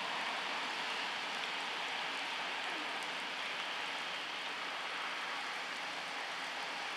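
Steady rain falling on a flooded road and standing water, an even hiss with faint fine drop ticks.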